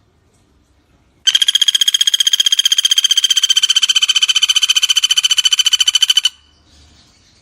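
Pelatuk bawang woodpecker giving a loud, rapid rattling trill of about a dozen even notes a second at a steady high pitch. It starts about a second in, lasts about five seconds and stops abruptly.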